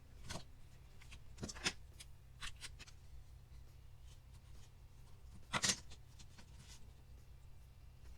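Handling of plastic Play-Doh toy pieces: a scattering of light clicks and taps, the loudest about five and a half seconds in, over a low steady hum.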